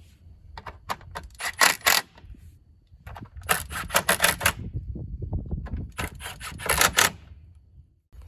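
Ratchet wrench clicking as it tightens the bolts holding the winch's front bezel, in three runs of rapid clicks with short pauses between.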